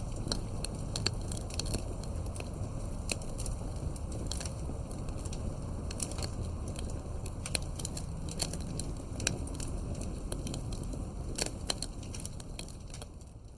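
Campfire crackling: frequent sharp pops and snaps over a steady low rumble, fading out near the end.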